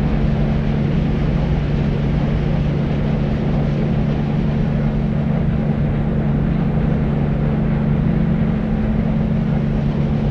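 Deep, steady white noise for sleep, weighted towards the low end with a dull rumbling hum and little hiss at the top, unchanging throughout.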